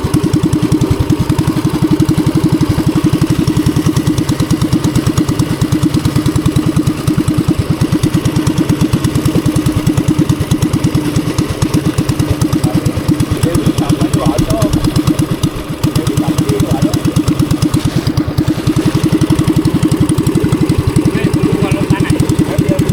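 A boat's engine running steadily at a constant speed, with a fast, even firing pulse.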